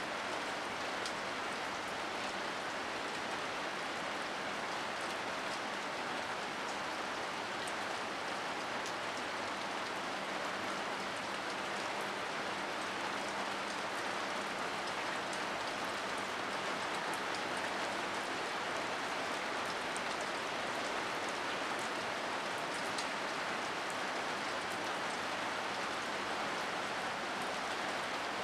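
Steady rain falling on wet concrete ground, an even hiss with individual drops ticking now and then as they splash into the standing water.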